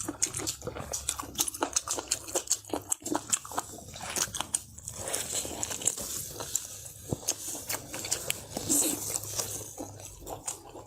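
A person eating close to the microphone, biting and chewing with many quick, irregular clicks and crunches.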